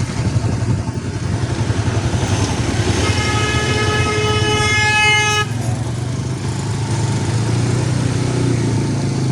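Motorcycle engine running steadily while riding. About three seconds in, a vehicle horn sounds one long steady note lasting about two and a half seconds, then cuts off.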